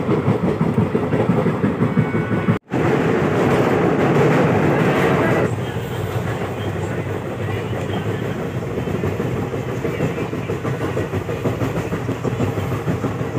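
Passenger train running at speed, heard from beside an open carriage window: a steady rush and rumble with the wheels clattering on the rails. The sound cuts out for an instant about two and a half seconds in, comes back louder for a few seconds, then settles a little lower.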